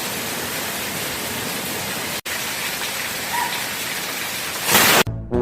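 Steady rain-like hiss with a brief dropout about two seconds in and a louder surge of hiss just before the end.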